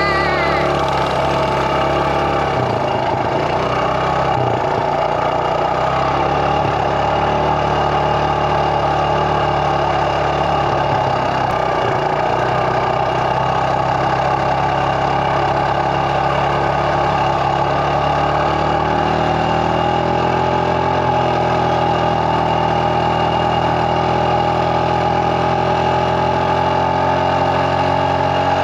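An engine running steadily at an even speed, with an added tone entering about two-thirds of the way through.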